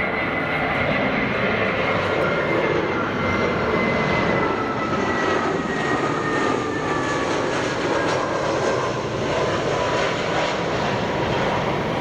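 Jet airliner's engines, a steady noisy rush carrying two high whine tones that slowly fall in pitch as the aircraft goes by.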